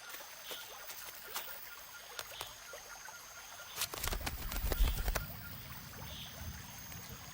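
Scattered light clicks and taps from a bird at its nest, with a brief low flutter of wingbeats about four seconds in, the loudest part.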